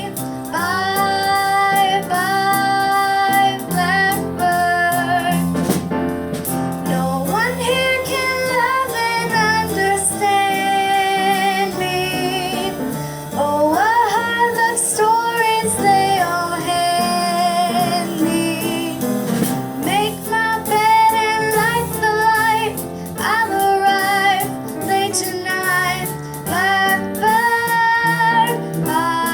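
A woman singing a tune over instrumental accompaniment.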